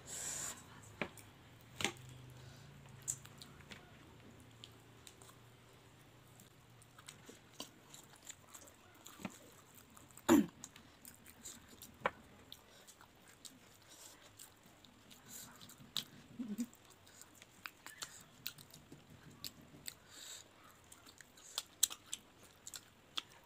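Chewing and crunching of oily fried bora fritters eaten by hand, with scattered small clicks and one sharper knock about ten seconds in.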